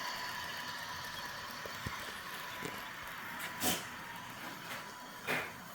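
Märklin HO model train running on the layout: a steady hiss and hum with a faint steady whine, and two short hissing puffs in the second half.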